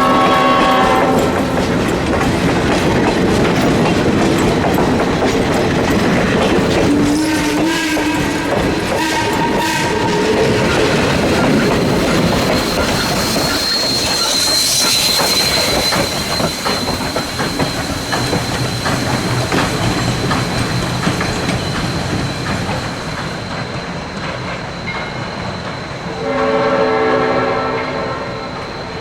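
Chesapeake & Ohio 1309, a 2-6-6-2 Mallet steam locomotive, working a train past. Its multi-tone whistle is blowing as the sound begins and cuts off about a second in, then sounds again a couple of seconds before the end. Between the blasts comes a steady loud rush of exhaust and the clatter of wheels on the rails.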